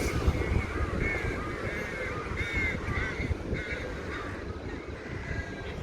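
A bird calling over and over, a quick run of short arched cawing calls that fades out about four seconds in, over a steady low rumble.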